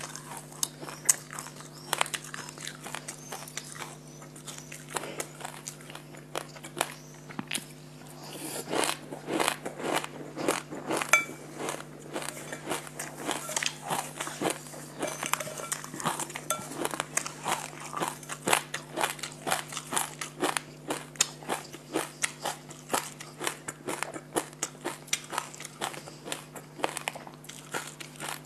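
Close-miked crunchy chewing of a mouthful of sesame seeds: a dense run of small crackles and crunches that grows louder about a third of the way in and settles into about two chews a second. A steady low hum runs underneath.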